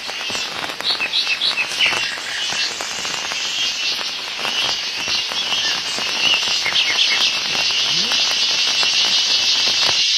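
Loud, steady chorus of forest insects, with a few short bird chirps over it; the chorus swells slightly louder toward the end.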